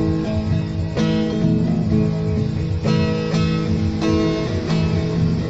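Acoustic guitar strummed in chords, an instrumental stretch with no singing.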